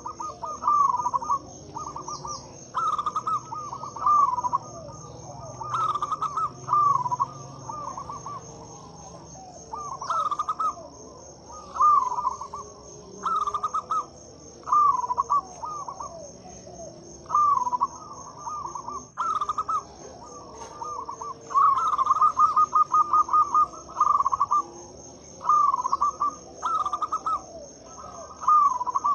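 Zebra doves (perkutut) cooing: short strings of rapid, trilled coo notes, repeated every second or two, with a steady high insect trill behind.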